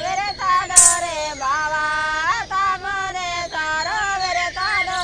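Song with a high-pitched voice singing a melody in held and sliding notes, and one sharp percussive hit about a second in.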